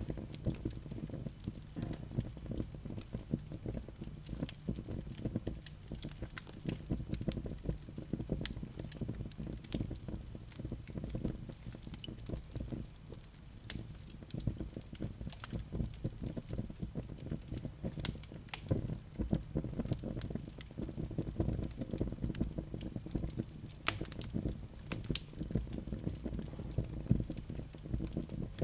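Wood fire burning in a fireplace, a low steady rush of flame with frequent small crackles and pops from the logs.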